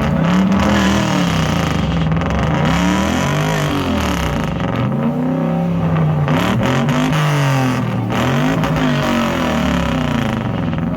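A car's engine being revved hard and let fall again over and over, about every one and a half seconds, the way a driver works the throttle during a burnout.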